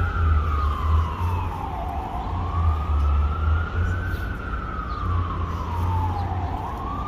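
Emergency vehicle siren wailing, its pitch rising and falling slowly, about one full sweep every four and a half seconds, over a steady low rumble.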